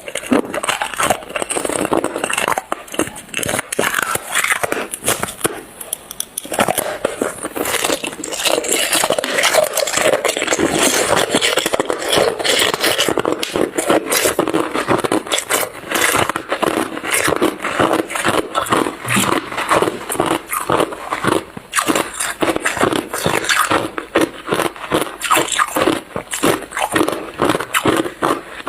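Hard, clear ice being bitten and chewed close to the microphone: a dense, continuous crunching and crackling of ice breaking between the teeth.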